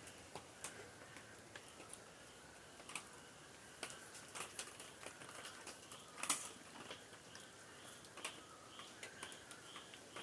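Irregular light clicks and taps, with a faint chirping repeated a few times a second behind them.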